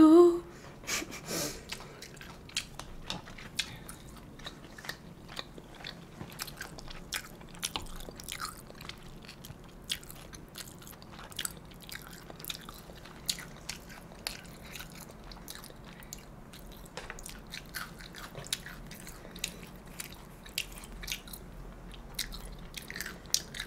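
Close-miked eating: a person chewing mouthfuls of jajangmyeon noodles and mapo tofu rice, with many short, sharp mouth clicks and smacks scattered throughout.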